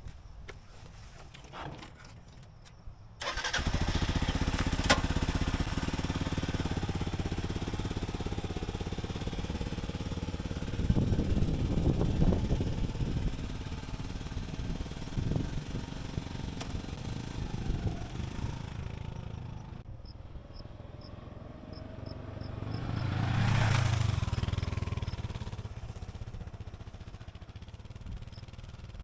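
Motorcycle engine that comes in suddenly about three seconds in and runs steadily, swelling louder twice, around the middle and again near the end.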